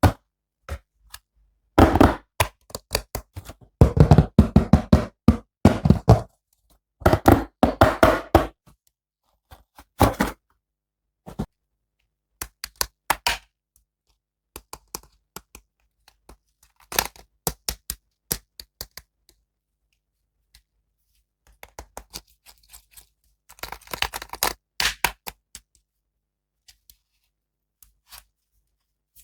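Hands handling plastic toy figures and packaging: clusters of sharp clicks, knocks and thunks, densest in the first third and again near the end, with silent gaps between.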